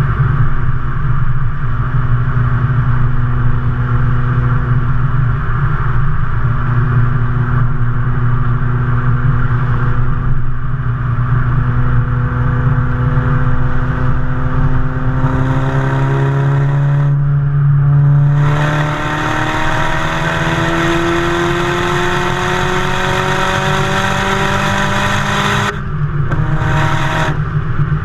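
Exhaust of a Mazdaspeed 3's turbocharged 2.3-litre four-cylinder, fitted with a Garrett GTX3071 turbo, running hard with the revs climbing slowly, then climbing slowly again after a change about two-thirds of the way through. Near the end the sound cuts out briefly twice.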